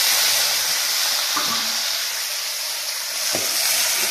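Chopped tomatoes sizzling in hot oil in a steel kadhai, a loud, steady hiss, with a light knock or two of the stirring spoon against the pan about three seconds in.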